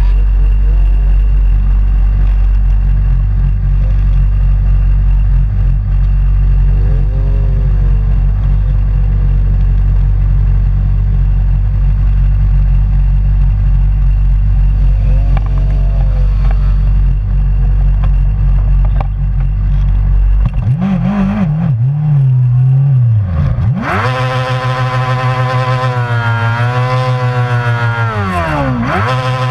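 Racing motorcycles on a track: a steady low rumble with faint engines rising and falling in pitch as bikes pass, then from about 21 seconds a loud, close motorcycle engine revving up and down through gear changes, its pitch dropping as it goes by near the end.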